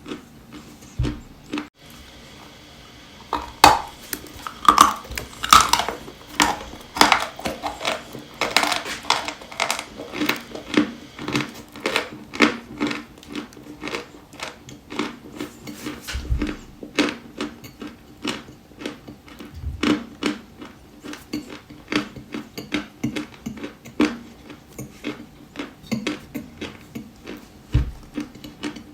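Dry white chalk crunching close to the microphone: a dense run of sharp, crackling crunches that starts sparse and becomes busy about three seconds in.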